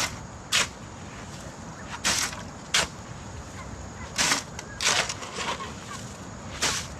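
A hand tool striking and scraping, about eight short strikes at uneven intervals.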